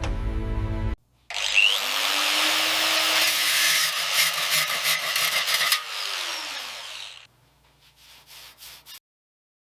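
Music cuts off about a second in. A power tool then runs against a workpiece for about six seconds, a harsh hissing, scraping noise, followed by a few faint ticks and then dead silence.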